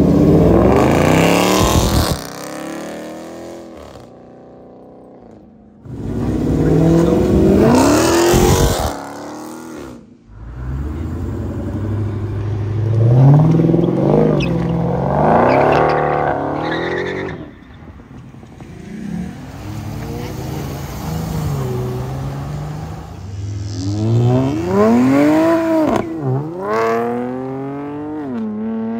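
Mopar cars' engines revving and accelerating hard in several short clips cut one after another. The pitch climbs, then drops back, again and again; the first clip cuts off abruptly about two seconds in.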